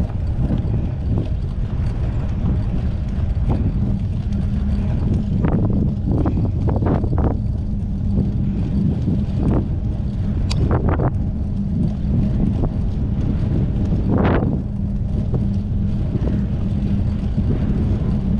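Wind buffeting the microphone of a camera carried on a moving mountain bike, a steady low rumble. A few brief rattles or knocks cut through, the strongest about fourteen seconds in.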